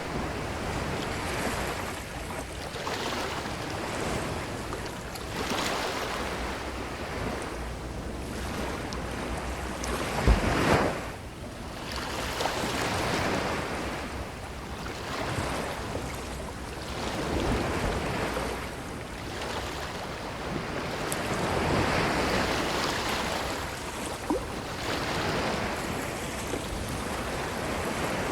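Ocean waves washing onto a beach shore, a steady surf that swells and eases every few seconds. About ten seconds in comes one sharp, louder low thump.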